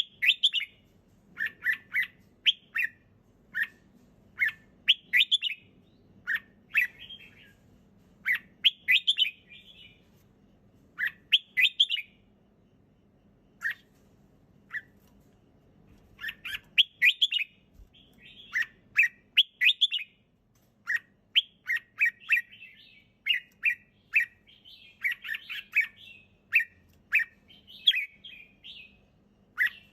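Red-whiskered bulbul singing: short, clear phrases of quick chirps, about one a second, with a pause of a few seconds near the middle.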